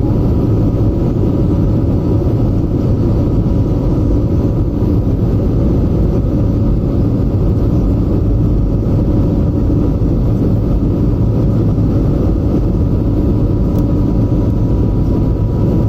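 Airbus A320neo's jet engines heard from inside the passenger cabin: a loud, steady roar with a few constant whining tones over it, during the climb after takeoff.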